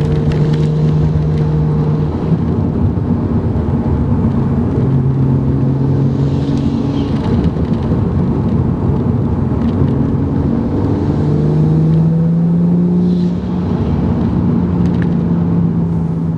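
Ford FG Falcon XR6 Turbo's turbocharged 4.0-litre straight-six running through a 3-inch exhaust with the middle muffler removed, a steady drone. The pitch drops about five seconds in and climbs again around eleven to thirteen seconds.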